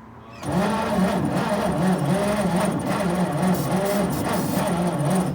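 A 1941 Chevy pickup's engine is cranked by its starter motor for about five seconds without catching. The pitch rises and falls regularly with each compression stroke. The battery is being drained, and right afterwards it is taken to be dying again.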